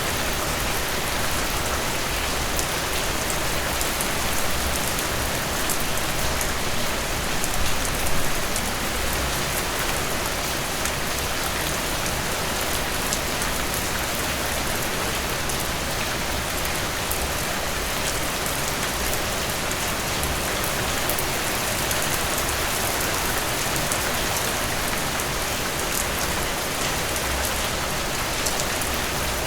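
Heavy rain falling steadily: a dense, even hiss of rain on surfaces, with fine patter of individual drops.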